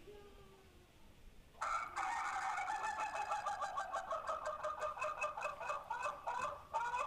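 A chicken calling in one long, continuous, rapidly pulsing cry that sounds like a person's voice, starting about one and a half seconds in and swooping up in pitch a couple of times near the end, played back from a funny video clip.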